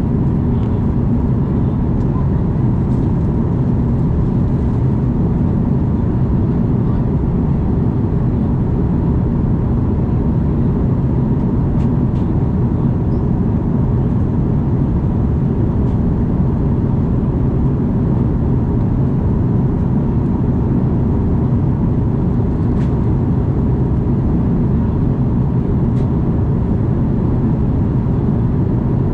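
Steady, loud rumble of an Airbus A330 jet airliner's engines and airflow, with a faint steady whine over the low roar.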